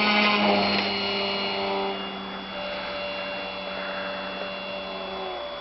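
Model aircraft motor of a radio-controlled Cessna 182 running at a steady pitch. It eases off and gets quieter about two seconds in, and its tones cut off near the end, as the model comes in to land on its skis.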